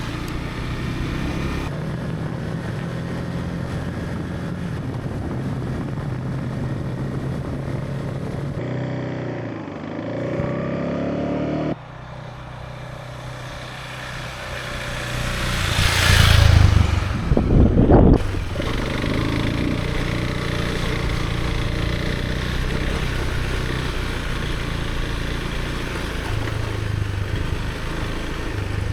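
Motorcycle riding sound: a Husqvarna Svartpilen's single-cylinder engine running steadily under way. The sound changes abruptly several times, and a louder rushing swell comes about sixteen seconds in.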